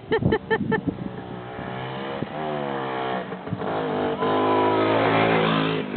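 The two-stroke single-cylinder engine of a 1967 Pannonia White Shooting Star 250 motorcycle, running for the first time. Its revs rise about two seconds in, hold higher and louder, then drop back near the end.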